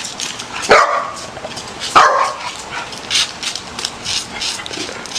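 A dog barks twice, about a second apart, the first just under a second in. Quick, scratchy clicks run underneath.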